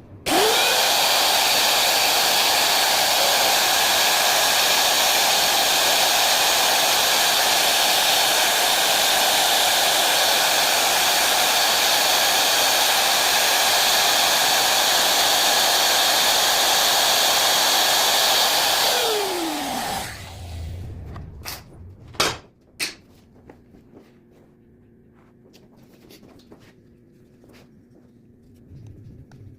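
Electric router switched on, spinning up with a rising whine and running steadily for about eighteen seconds while freehand routing a pickup cavity in a guitar body, then switched off and winding down. A few sharp knocks follow.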